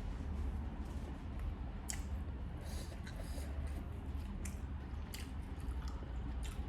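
Close-up eating sounds: chewing with scattered small wet mouth clicks, over a steady low hum.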